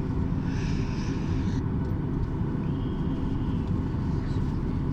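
Steady low rumble inside an airliner cabin on the ground after landing: engine and cabin noise, with a brief hiss about half a second in that lasts about a second.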